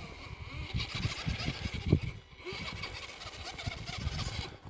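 Farm truck's engine running under load as it crawls over rock, with irregular low thumps and a steady hiss that cuts off suddenly near the end.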